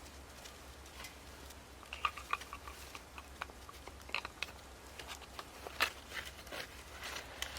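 Wood fire burning in a fire stand, crackling with irregular sharp pops and snaps, the loudest about six seconds in.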